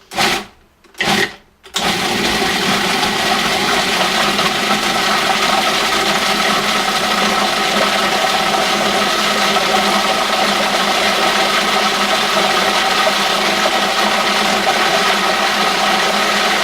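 Food processor grinding raw chicken breast and chicken livers: two short pulses, then the motor runs steadily at full speed with a loud hum and the churn of the meat.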